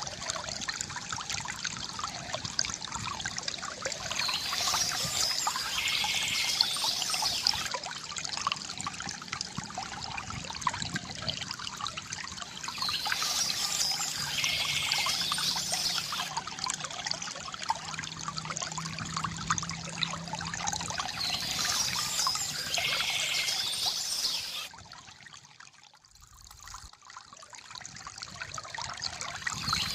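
A small stream trickling and splashing steadily over stones, with birds singing in short phrases about every eight or nine seconds. The water sound fades out briefly near the end and then comes back.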